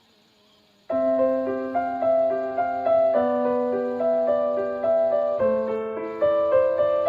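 A short near-silent gap, then piano background music starts abruptly about a second in: a slow, gentle melody of held notes over a sustained bass note.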